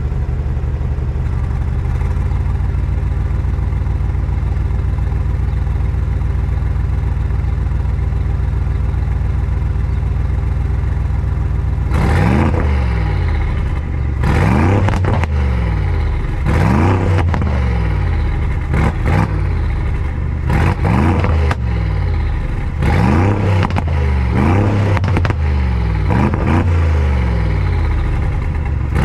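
Mansory G900's 4-litre V8 idling steadily while parked, then free-revved from about twelve seconds in, with about ten short throttle blips, one every second or two.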